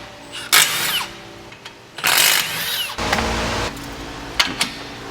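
Power tool, likely an impact wrench, run in two short bursts whose pitch falls away, followed by a steady low hum with a couple of sharp clicks.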